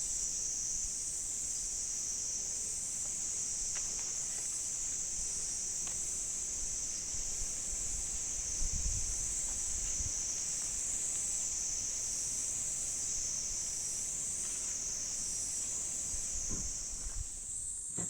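A steady, high-pitched chorus of insects shrilling without a break, with a slight waver in it.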